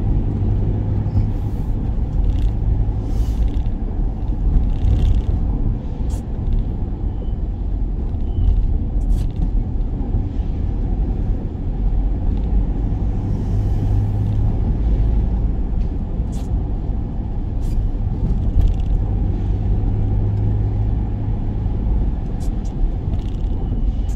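Steady engine and road rumble of a work van heard from inside the cab while driving, with scattered faint ticks over it.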